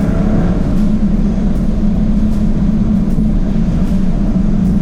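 2024 Jaguar F-Type's supercharged 5.0-litre V8 and exhaust pulling at a steady pitch with a deep gurgling note.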